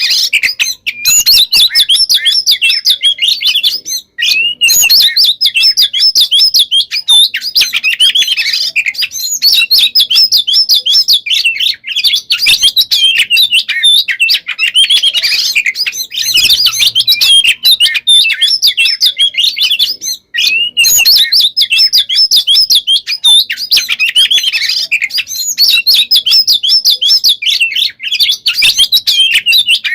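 Oriental magpie-robin (kacer) singing a loud, dense, almost unbroken run of rapid high chirps and trills, packed with mimicked phrases. Keepers call this nonstop style 'konslet'. The song breaks off briefly about four seconds in and again about twenty seconds in.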